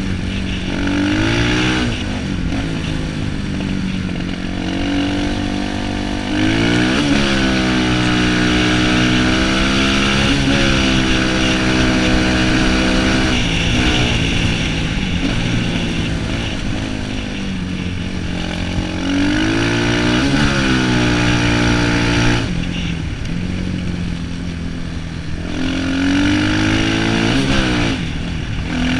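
250cc motocross bike engine running hard, its pitch repeatedly climbing and falling as the throttle is opened and closed. It eases off for a few seconds near the end before revving up again.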